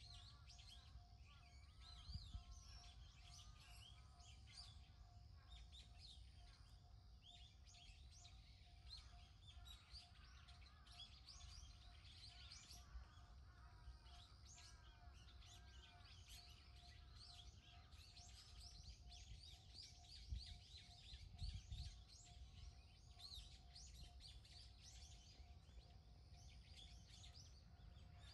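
Faint outdoor birdsong: many small birds giving short high chirps throughout, over a steady faint tone and a low rumble. A few soft low thumps stand out, one early and a couple later on.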